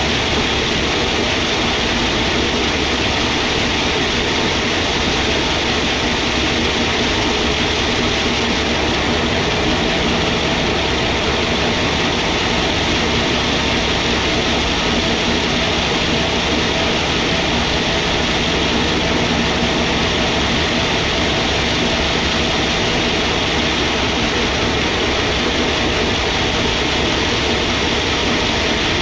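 Sawmill machinery running steadily: a constant mechanical drone and hiss with a faint steady hum, without pauses or changes.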